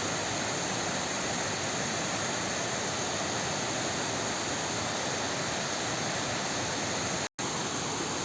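Waterfall in a forest stream: a steady rush of falling, splashing water that cuts out for an instant about seven seconds in.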